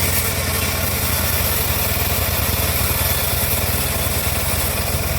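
Homemade bandsaw mill running steadily, its motor giving a constant low hum under a high hiss.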